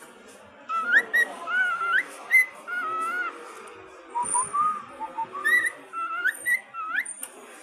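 Cockatiel whistling a song: phrases of short clear notes with quick upward slides in pitch, starting about a second in, with a short pause near the middle.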